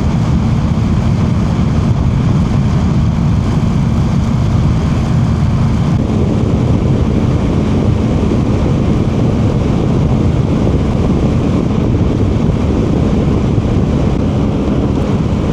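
Steady wind rush and engine drone of a BMW R1200GS boxer-twin motorcycle heard from the rider's position while riding at road speed.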